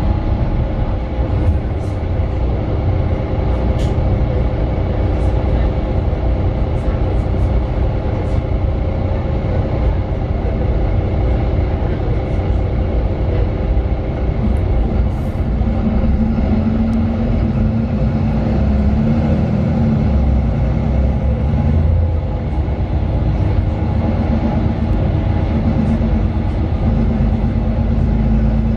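Mercedes-Benz Citaro 2 city bus under way, heard from inside: its OM 936 six-cylinder diesel with a ZF Ecolife automatic gearbox gives a steady low drone, with a few light rattles. A stronger low hum comes in about halfway through.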